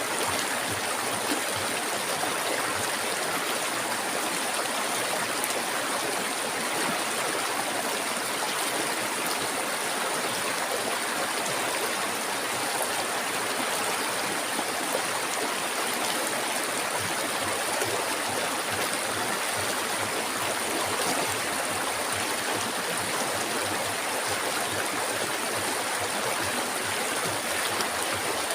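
Flowing river water, a steady, even rush and burble with no breaks.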